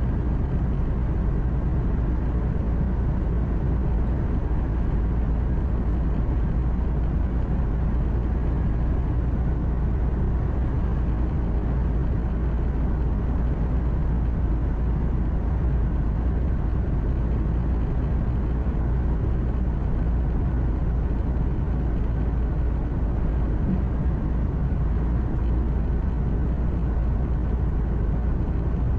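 Steady low drone of a truck's engine and road noise, heard from inside the cab while driving, with no change in level.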